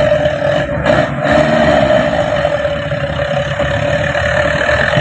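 Truck engine running steadily, a low rumble with a steady tone above it.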